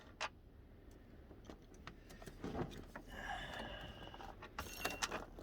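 Hand tools working loose the last engine mount bolt: one sharp click, a faint squeaky metallic scrape in the middle, and a few sharp clicks near the end.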